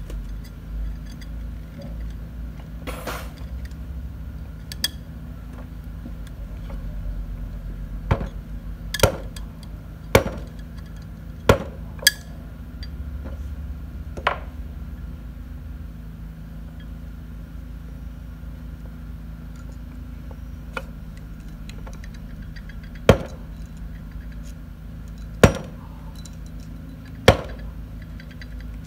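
Hand tools knocking and clinking on metal parts: about ten sharp, irregular strikes, a quick cluster in the middle and three more spaced out near the end, over a steady low hum.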